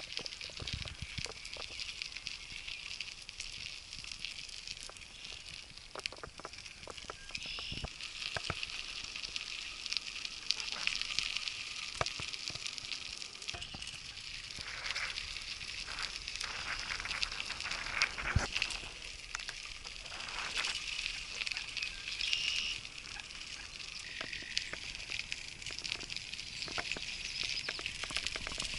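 Steady crackling hiss with many scattered clicks and ticks, as from a bicycle rolling along a rough road.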